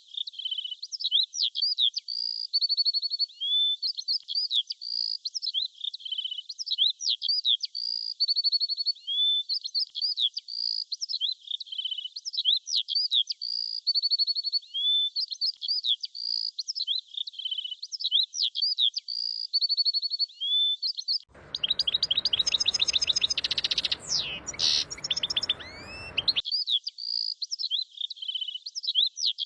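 Small birds chirping and tweeting in quick, high calls that repeat in a regular cycle every couple of seconds. For about five seconds late on, a fuller recording with a background hiss and denser chirping cuts in, then the cycle returns.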